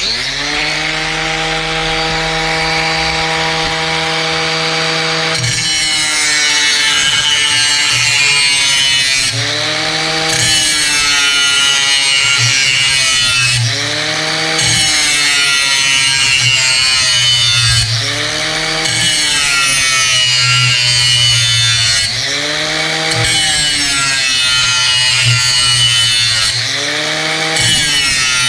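Angle grinder sharpening a steel mower blade clamped in a vise. It runs free with a steady whine for about five seconds, then grinds the edge with a harsh hiss, the motor's pitch rising and falling with each pass, about every four seconds.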